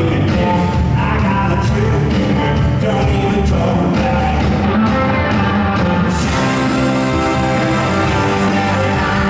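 Blues-rock band playing live and loud: electric guitars, bass and drums, with singing.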